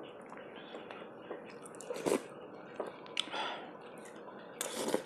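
A person chewing food close to the microphone, with wet mouth sounds and a few short sharp clicks spread through.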